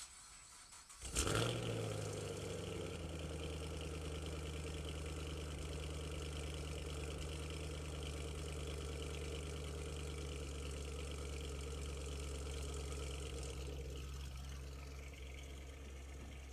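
Engine cold-started: it cranks briefly, catches about a second in with a loud flare, then settles into a steady fast idle that eases slightly near the end.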